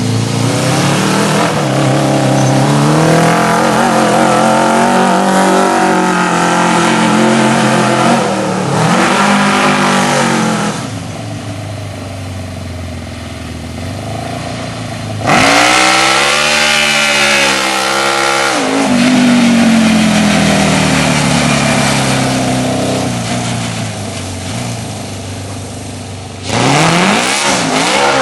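Kawasaki KZ650 inline-four motorcycle engine in a homemade go-kart, revving up and easing off as the kart accelerates and slows. The pitch rises and falls repeatedly, with quieter low stretches. Loud bursts of acceleration start abruptly about halfway through and again near the end.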